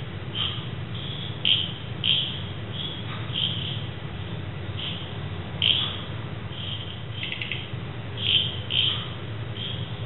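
Birds calling in the dark: about a dozen short, high chirps at irregular intervals, a few of them louder, with a quick run of notes about seven seconds in, over a steady low hum.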